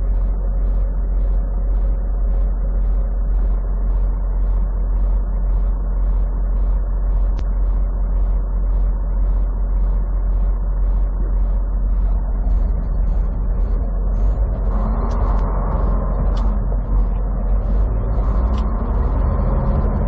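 Semi truck engine and road noise heard from inside the cab: a steady low rumble with a light, regular ticking about twice a second. About fourteen seconds in, the engine note grows louder and its pitch rises and falls as the truck pulls away and climbs through the gears.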